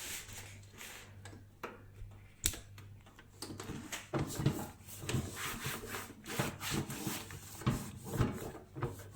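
Cloth rubbing and scraping over a microwave, with irregular clicks and knocks from handling it. There is one sharp knock about two and a half seconds in, and the rubbing grows busier from about four seconds on.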